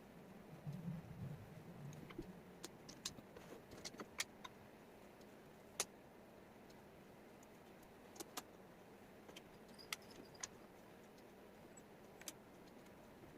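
Faint, irregular light clicks and taps of wooden jigsaw puzzle pieces being handled and set down on a table. There is a brief low shuffling rustle about a second in.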